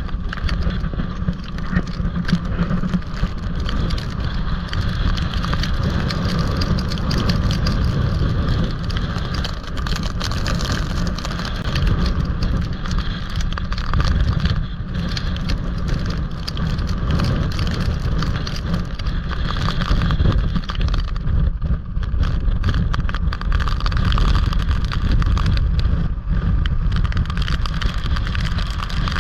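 Strong gusting wind buffeting the microphone over rough surf breaking on the shore, in storm conditions from a hurricane's outer bands.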